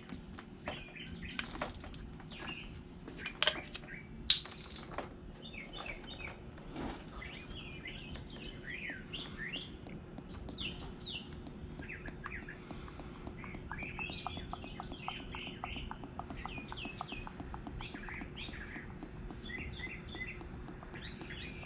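Small birds chirping and twittering over and over, with a couple of sharp clicks about three to four seconds in and a faint steady hum underneath.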